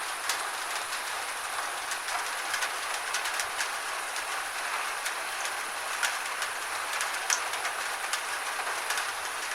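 Gentle rain falling steadily: an even hiss with irregular sharp drops tapping on a surface.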